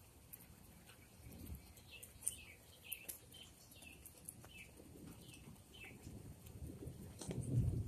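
A bird calling a string of short downslurred notes, about two a second. A brief low rumble near the end is the loudest sound.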